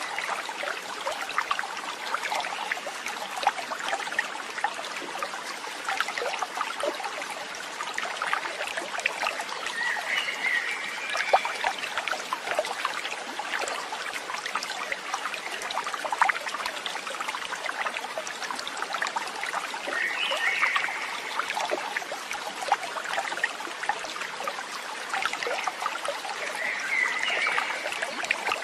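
Water trickling and babbling in a stream, steady and full of small splashes, with a few short calls now and then.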